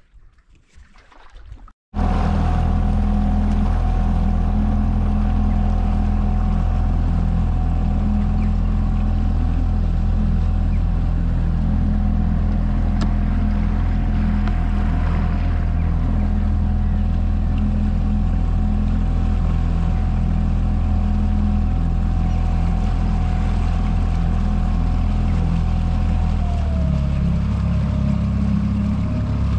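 Motorboat engine running steadily at cruising speed, its pitch dropping slightly near the end as it eases off. The engine comes in suddenly about two seconds in, after a brief quieter stretch.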